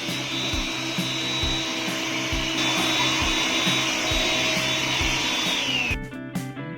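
Vacuum cleaner running steadily with a high whine, cleaning dust off an air conditioner's indoor-unit filter; about six seconds in it is switched off and the whine falls away. Background music with a steady beat plays under it.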